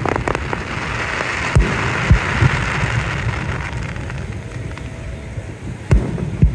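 Fireworks going off: a string of sharp bangs and pops, with a crackling fizz like rain through the first few seconds and two more loud bangs near the end.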